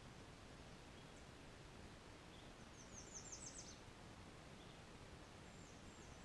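A bird sings a quick high-pitched trill of about ten notes around three seconds in, with a few faint high chirps near the end, over a faint steady background hiss.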